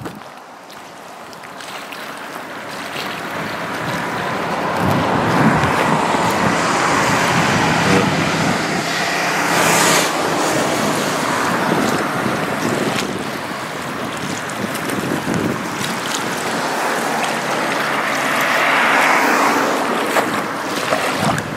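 Steady rushing and splashing of water, as from a vehicle moving through floodwater, with wind noise on the microphone. It builds over the first few seconds and swells again near the end.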